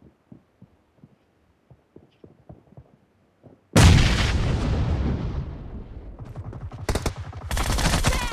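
Video game combat sound effects: soft, evenly spaced taps at first, then about three and a half seconds in a loud blast followed by rapid automatic gunfire, with further bursts of fire near the end.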